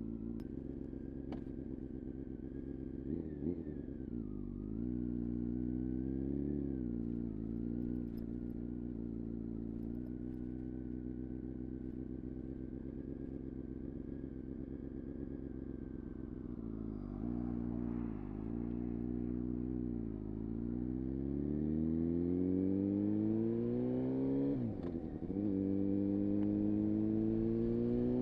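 Honda CBR-929RR Fireblade's inline-four through an Erion full racing exhaust, freshly started and idling with two short throttle blips. Later the engine note climbs steadily as the bike pulls away, drops sharply at an upshift near the end and climbs again.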